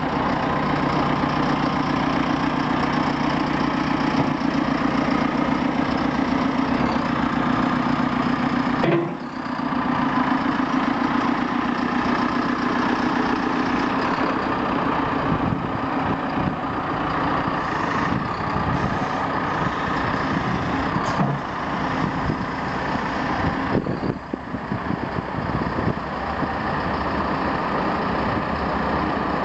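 JCB 3CX backhoe loader's diesel engine running steadily, with brief drops in level about 9 and 24 seconds in.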